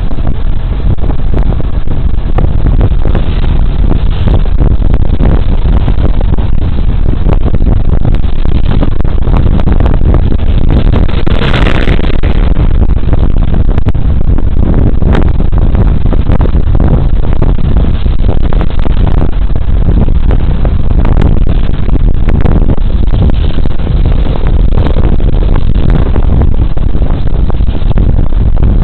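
Riding on a Suzuki Burgman Street 125 scooter: heavy wind rush buffeting a body-worn camera's microphone, with the scooter's single-cylinder four-stroke engine running steadily underneath. A brief louder, brighter rush comes about twelve seconds in.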